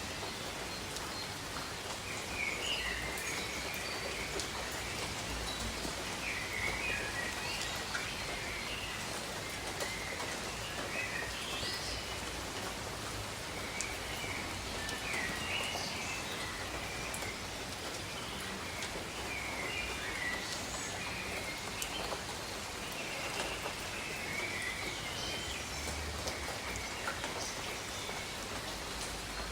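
Steady rain with scattered raindrop patter, and birds giving short chirping calls every second or two.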